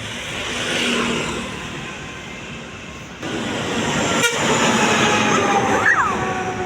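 Trucks passing on a road, their engines and tyres making a steady traffic noise that grows louder a little after three seconds in.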